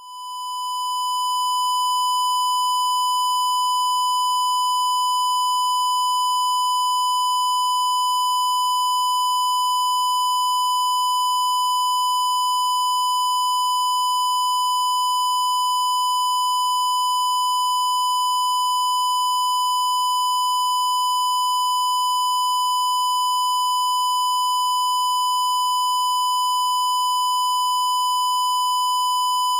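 A continuous high-pitched electronic tone, like a long test-tone beep. It swells up over the first couple of seconds, then holds at one unchanging pitch and level throughout.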